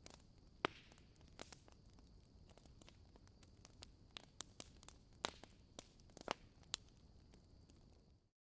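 Wood fire crackling in a fireplace: irregular sharp pops and snaps over a faint steady hiss. The sound cuts out to silence just before the end.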